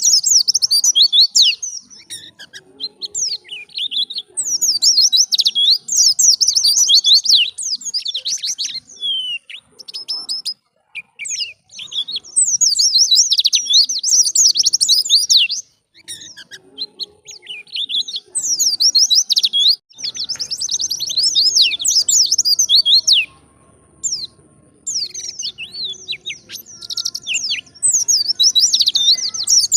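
White-eye (pleci) singing in fast, high-pitched twittering phrases of one to three seconds each, separated by short pauses.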